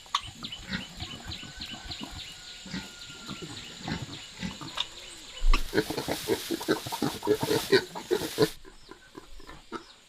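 Newborn piglets squealing and grunting in quick, many-voiced calls while suckling, with low pig grunts underneath. A rustling burst rises a little past the middle and stops about three seconds later.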